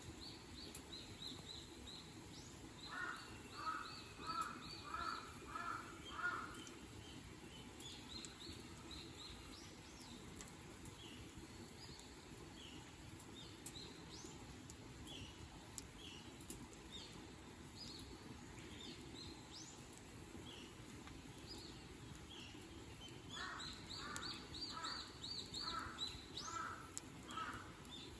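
A crow cawing in two bouts of about six caws each, one a few seconds in and one near the end, while small birds chirp with short high notes throughout over a steady low background hum of outdoor noise.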